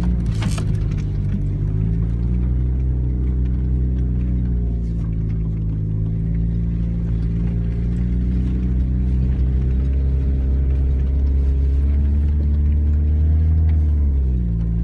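The 1998 Chevy S-10 pickup's four-cylinder engine running steadily as the truck is driven, its exhaust leaking. The note drifts gently up and down, climbs a little in the last few seconds, then falls back just before the end.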